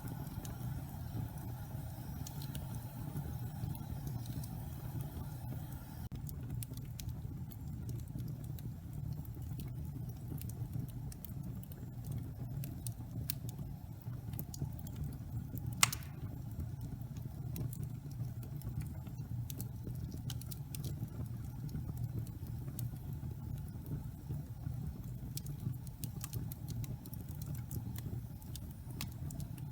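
Wood fire burning in a fireplace: a steady low rumble with scattered small crackles, and one sharp pop about halfway through.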